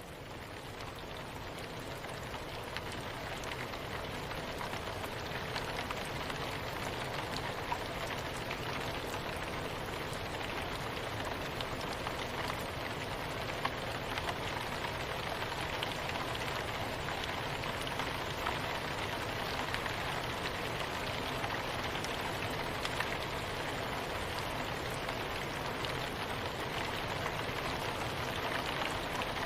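Soft rain falling steadily, an even hiss of many small drops with faint separate ticks. It swells up over the first few seconds, then holds level.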